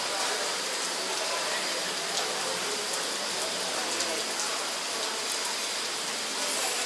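Tropical rain falling steadily, an even hiss with no breaks.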